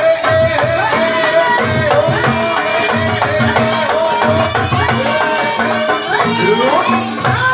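Javanese gamelan music, the kind that accompanies a wayang performance: steady hand-drum beats about twice a second under a long, sliding melody line.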